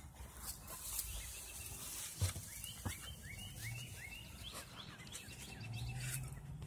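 A bird chirping in a quick run of short rising notes, with two sharp knocks, the louder about two seconds in, from the phone being bumped or handled.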